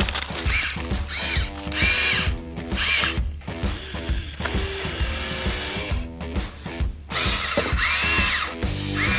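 Electric motors of a radio-controlled model excavator whining in short bursts as it works, each whine rising, holding and falling in pitch as a movement starts and stops.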